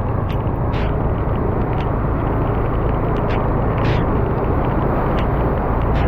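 Car driving through flooded city streets: a steady low road-and-engine rumble, with scattered short clicks and splashes on top.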